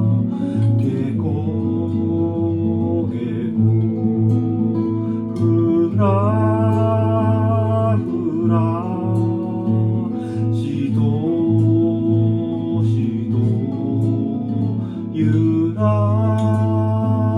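An original song performed by a small acoustic duo: plucked acoustic guitar accompaniment with a melody line above it that bends in pitch, phrase by phrase.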